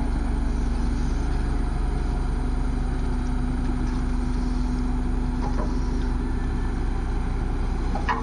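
Heavy diesel engine of the earthmoving machinery running steadily at an even, low speed.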